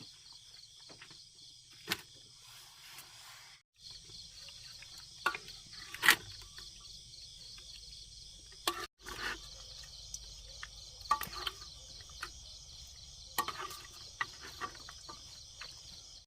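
A steady chorus of insects, a high pulsing trill, with a few sharp clicks and knocks scattered through it (the loudest about six seconds in). The sound cuts out briefly twice, near four and nine seconds.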